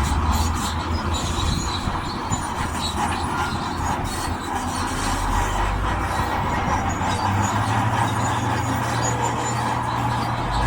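Diesel engine of heavy earthmoving machinery working under load, its note rising about seven seconds in, with metallic grinding and high squeaks throughout.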